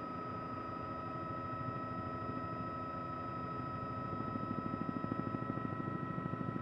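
Helicopter running in flight, heard from on board: a steady high turbine whine over the rapid beat of the rotor blades, the beat growing stronger about four seconds in.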